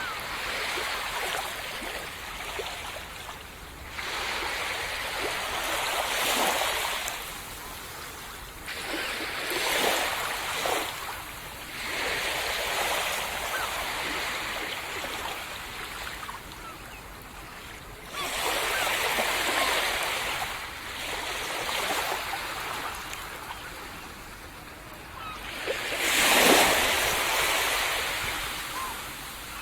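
Waves breaking and washing up on a sandy tropical beach, the surf swelling and fading every few seconds, loudest near the end.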